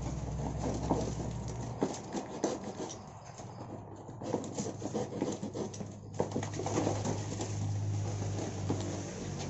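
Small caged wild-caught songbirds moving about, making a patter of irregular scratches, taps and wing flutters over a steady low hum.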